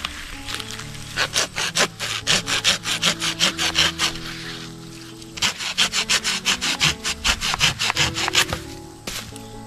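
Hand saw cutting through wood in two bouts of quick back-and-forth strokes, about four a second, with a short pause between them.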